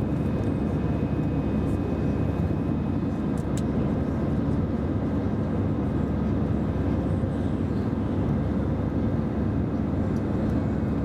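Steady roar of an Airbus airliner's jet engines and airflow heard inside the passenger cabin during the climb after takeoff, with a few faint steady whining tones above the rumble.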